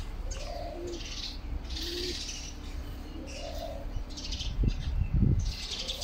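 Small birds chirping, a short high call repeated about once a second. A couple of low thumps come about five seconds in.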